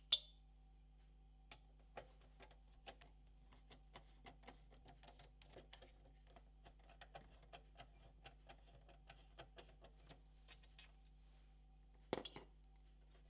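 Small screws being worked out of a PS4 Pro's metal motherboard shield with a screwdriver: a run of light, irregular metal clicks and taps, about two or three a second. There is a sharp click at the start and a short louder clatter near the end.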